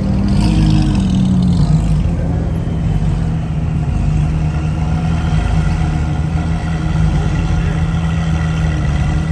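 A car engine running steadily, with a brief rise and fall in pitch in the first couple of seconds.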